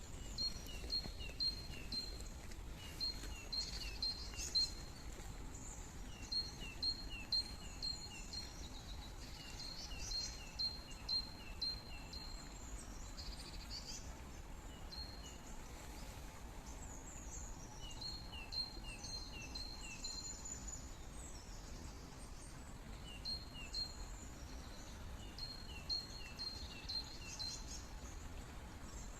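A songbird singing phrase after phrase of quick, high chirping notes, several notes a second in each run, with short pauses between phrases. Under it, a steady low rush of flowing water.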